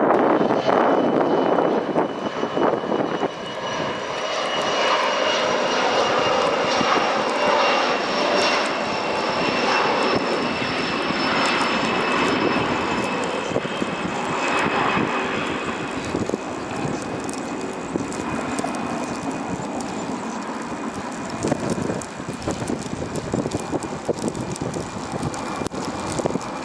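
Jet airliner's engines: a rushing noise with a high whine that falls slowly in pitch, loudest at first and easing off in the second half.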